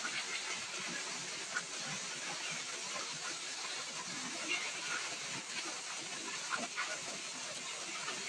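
Heavy rain falling steadily, a constant hiss with scattered drips and patters spiking through it.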